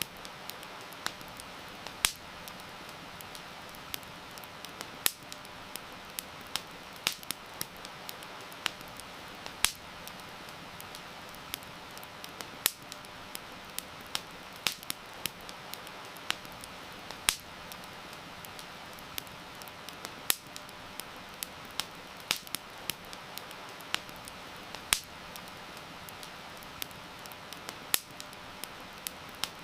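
Wood fire crackling, with sharp pops at irregular intervals, over a steady hiss of heavy rain.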